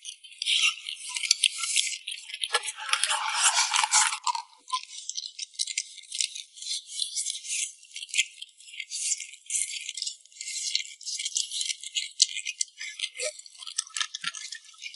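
Close-up crunching and chewing of crispy fried food, a dense, irregular run of sharp crackles. About two and a half seconds in, a louder, fuller stretch lasts for about a second and a half.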